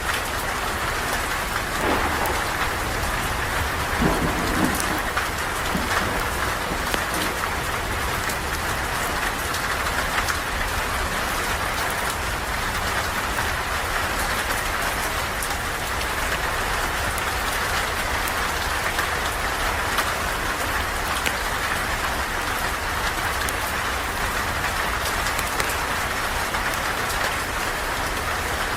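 Steady heavy rain falling, with scattered small crackles and pops from a campfire. A brief low rumble comes about four seconds in.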